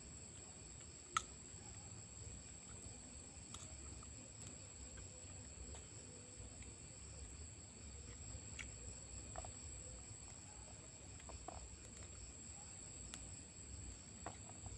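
Crickets calling in a steady high-pitched chorus, with one sharp click about a second in and a few faint ticks.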